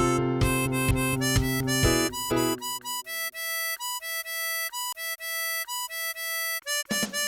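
Tremolo harmonica playing a pop melody over a backing track with bass and a beat. About two and a half seconds in, the backing drops away and the harmonica carries on alone, playing a string of held, repeated notes. The full accompaniment comes back near the end.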